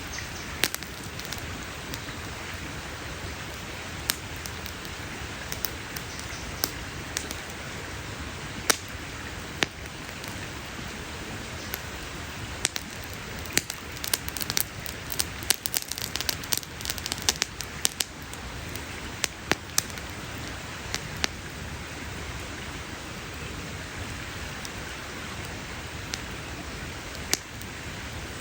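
Wood campfire crackling: sharp pops and snaps scattered over a steady hiss, with a quick flurry of crackles around the middle.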